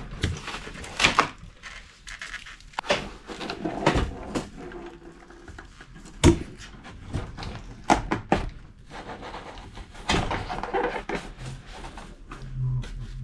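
Irregular knocks, clicks and clatter of tools and parts being handled during refrigerator repair work, with sharp knocks about 1, 4, 6 and 8 seconds in.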